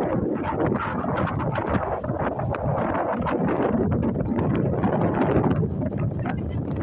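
Strong wind blowing across the microphone, a continuous noise that rises and falls in gusts.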